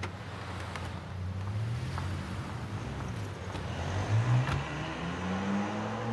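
Dodge Viper RT/10's V10 engine running low and steady, then accelerating from about four seconds in with its pitch rising. A sharp click comes about four and a half seconds in.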